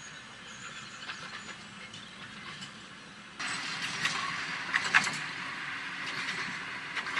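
Narrow-gauge electric tram running on its rails: a steady rumble with scattered wheel clicks and knocks. It becomes suddenly louder a little over three seconds in, with one sharp knock standing out shortly after.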